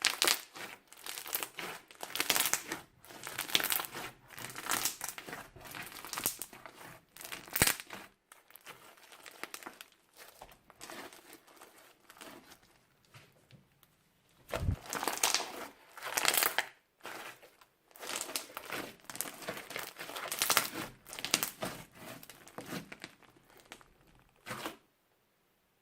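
Crunchy slime being squeezed and pressed by hand, giving dense, irregular crackling crunches. They thin out for several seconds in the middle, then pick up again and stop shortly before the end.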